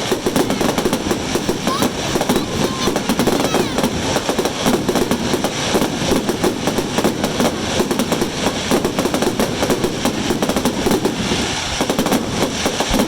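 Fireworks going off in a dense, rapid barrage of bangs and crackles with no pause between them.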